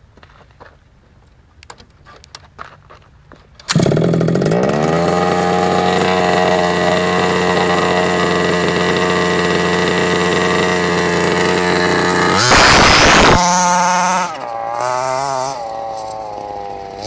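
Small nitro two-stroke engine of a Carson Comanche RC car with a custom four-pipe exhaust, starting abruptly about four seconds in after a few faint clicks and running steadily at a high, buzzing pitch. Near the end it gives one short, louder burst of throttle, then drops to a lower, unsteady idle whose pitch wavers.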